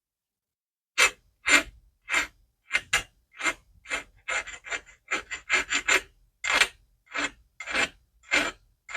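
Hand file rasping across the cut end of a 3/16-inch brake line in about twenty short strokes, two or three a second, starting about a second in. It is filing the tube end flat and square before it is flared.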